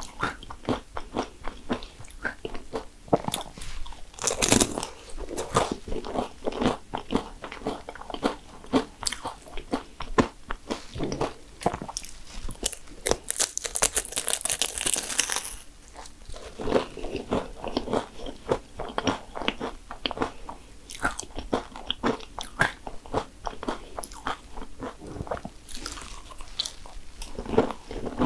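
Biting and chewing of crisp cannoli shells, crunching in quick, irregular crackles. There is a loud bite about four seconds in and a longer stretch of sharp crackling around the middle.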